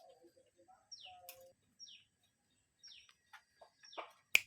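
Birds calling: short high chirps that slide downward, repeated about once a second, with a cluster of low notes in the first second and a half. A sharp click near the end is the loudest sound.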